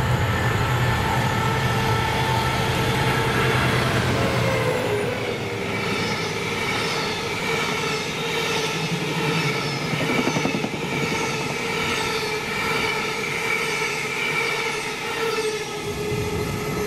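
A Class 66 diesel locomotive with its two-stroke V12 engine running as it passes, its low drone fading after about four seconds. It is followed by the steady rumble of Caledonian Sleeper coaches rolling by, with a high, held squeal from the wheels over the rumble.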